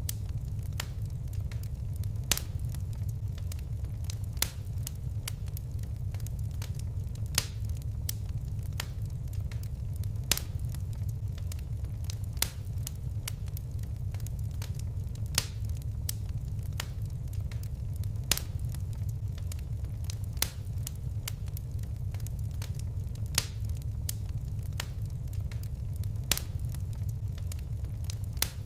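Fire crackling in a fireplace: sharp pops and snaps scattered over a steady low rumble of the flames, with a louder pop every two or three seconds.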